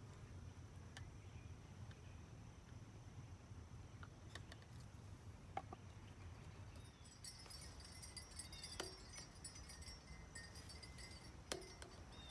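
Quiet handling of PVC pipe and fittings: a few scattered light clicks and knocks of plastic parts over a low background rumble, with faint high chirping from about halfway.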